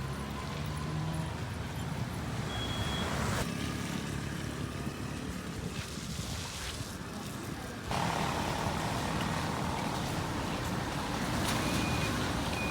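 Street ambience with passing traffic, a steady wash of noise that changes abruptly about a third of the way in and again past halfway.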